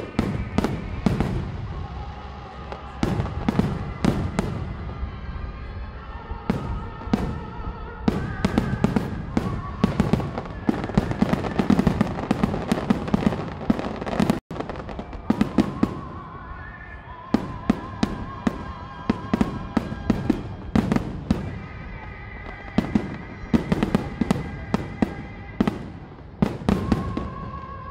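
Aerial firework shells bursting in a rapid barrage of bangs, thickest through the first half, with music playing underneath. The sound drops out for a split second about halfway through.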